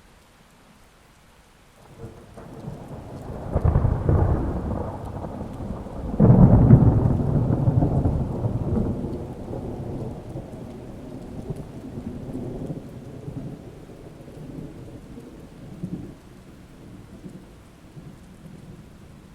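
Thunder rumbling over steady rain: two loud claps about four and six seconds in, then a long rolling rumble that slowly fades.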